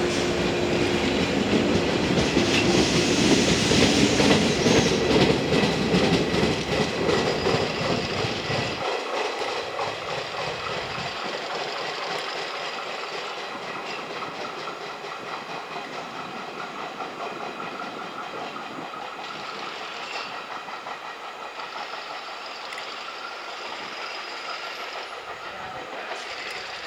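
Electric multiple-unit train running by on the rails, loudest a few seconds in and then steadily fading as it moves away.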